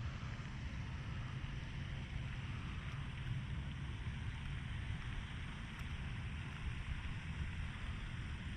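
Steady wind buffeting the microphone, with a constant hiss of wind and water above it.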